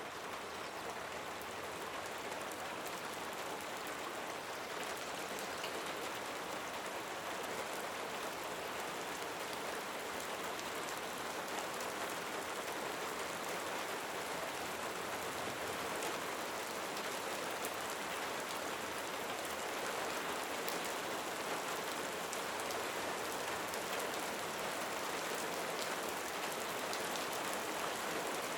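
Steady rain falling: an even hiss of many drops with fine ticks through it, growing slightly louder over the first several seconds.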